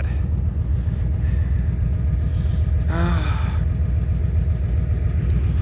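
Diesel truck engine idling with a steady low rumble after a cold start. A brief vocal sound from a person about three seconds in.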